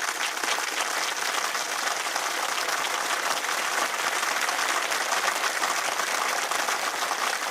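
Audience applauding a live band: steady clapping from a crowd in the open air.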